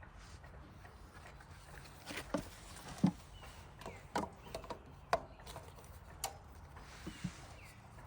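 Scattered light knocks and clicks at irregular intervals, with a heavier low thump about three seconds in.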